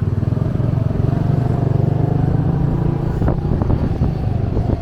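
Small motorbike engine running under way, heard from the pillion seat, its note climbing a little over the first couple of seconds.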